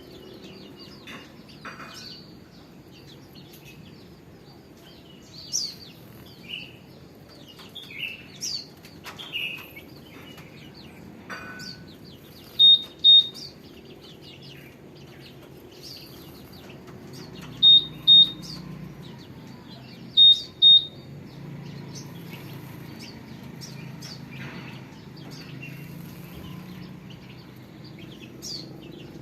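Small songbirds chirping with short, scattered calls over a low background hum. Three times, about twelve, seventeen and twenty seconds in, a pair of short, high, even-pitched beeps sounds louder than anything else.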